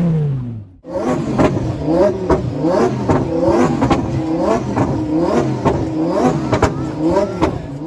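A car engine being revved in quick repeated blips, about two a second, each rev rising and falling in pitch, with sharp cracks among the revs.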